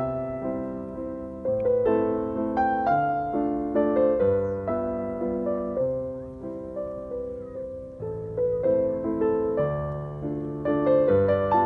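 Background piano music: a slow melody of struck notes that each fade, over chords.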